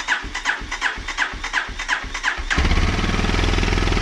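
2020 Kawasaki KLX 230's air-cooled single-cylinder engine cranked by its electric starter, chugging about four times a second. It catches about two and a half seconds in and settles into a steady idle, starting on a freshly replaced battery after sitting for months.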